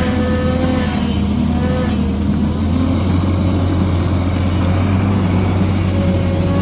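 Heavy construction machine's diesel engine running steadily under load, a deep hum with a wavering whine above it.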